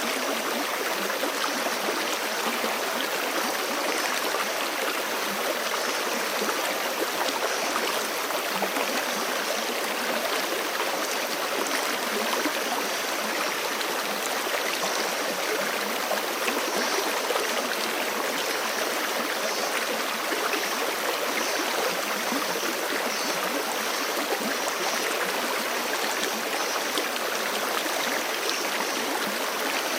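Forest creek flowing steadily: a constant, even rush of running water.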